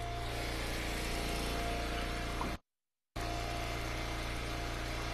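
Eastonmade Ultra wood splitter's gasoline engine running steadily, with a thin steady whine above the hum. The sound cuts out completely for about half a second a little past the middle.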